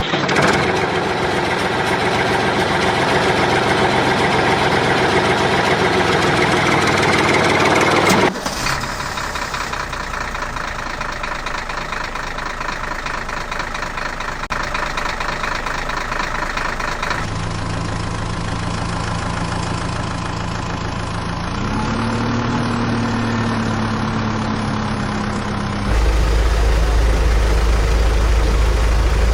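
Heavy diesel engines running steadily in several clips that cut abruptly from one engine to another. In one clip the engine pitch rises once and holds, as when revved.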